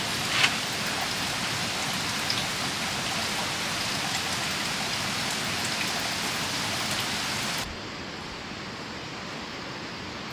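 Steady heavy rain hissing, with a few sharp drop ticks. About three-quarters of the way through it cuts abruptly to a quieter, duller steady hiss.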